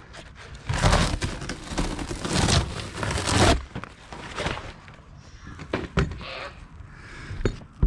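Old rubber (EPDM) roof membrane being pulled up off the RV roof deck: a loud, crackling rip that lasts about three seconds. Quieter scraping follows, with a couple of sharp knocks near the end.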